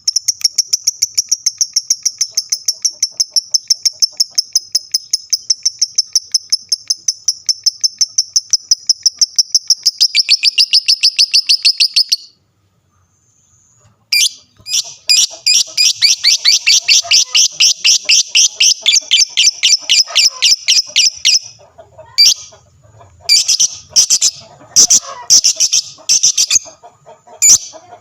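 Lovebird singing a long, rapid trill of sharp, high chirps, about five a second, the sustained song that Indonesian keepers call ngekek. The trill runs about twelve seconds, stops briefly, resumes for about seven seconds, then breaks into shorter bursts.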